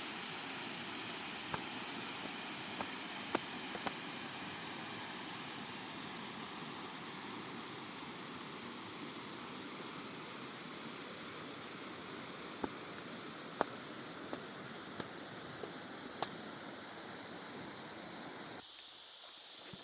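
Steady outdoor background hiss with scattered small clicks and taps. Near the end the sound changes abruptly as the lower part drops away.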